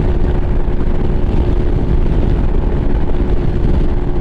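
Lifan KPM 200's single-cylinder engine running steadily at highway cruising speed, a constant drone under heavy low wind and road rumble.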